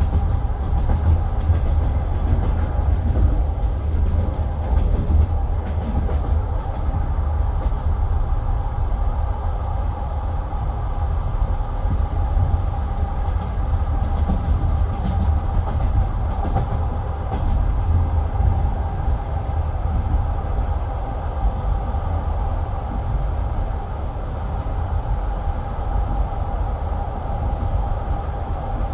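Passenger train carriage rumbling steadily, with a constant mid-pitched hum over the low rumble.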